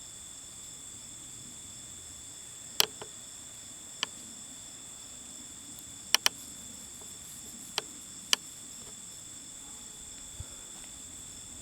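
Steady, high-pitched chorus of insects trilling, with about six sharp clicks scattered through it, two in quick succession about six seconds in.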